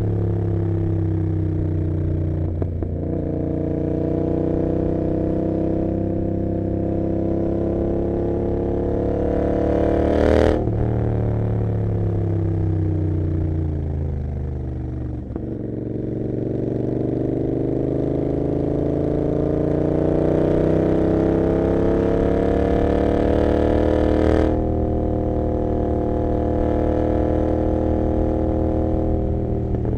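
Royal Enfield Continental GT 650's 648 cc parallel-twin engine through an Emgo cafe muffler with no dB killer, under way: the exhaust note climbs under throttle and drops at each upshift, about three seconds in and again near the end. In the middle it winds down for several seconds off the throttle before pulling again.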